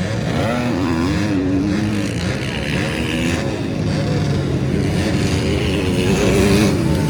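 Motocross bikes racing, their engines revving up and falling back again and again as the riders work the throttle and shift through the gears.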